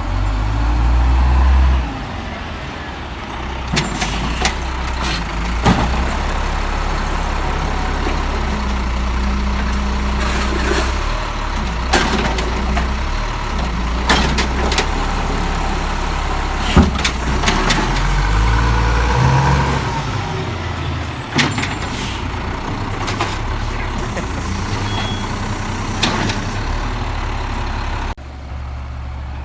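Peterbilt 320 automated side-loader garbage truck's diesel engine running, the pitch shifting as it revs up and down, with several sharp knocks and bangs.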